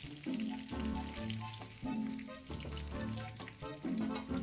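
Chicken legs sizzling and crackling in hot olive oil in a frying pan, under background music with bass notes and chords.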